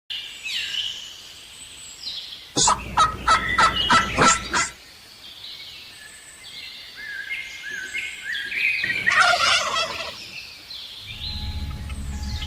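Turkey gobbling: a loud, rapid rattling run of notes about two and a half seconds in, and another call about nine seconds in, over small birds chirping. A low rumble comes in near the end.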